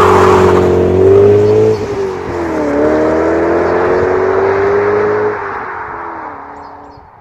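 BMW E39 M5's V8 engine through an Eisenmann exhaust, revving under acceleration. Its pitch dips about two and a half seconds in and climbs again, then the sound fades out over the last couple of seconds.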